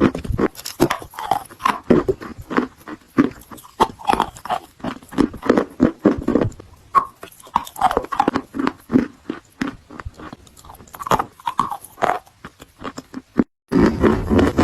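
Close-up crunching and chewing of white edible chalk: irregular crisp bites and crackles as the chalk is broken down in the mouth. It breaks off briefly near the end.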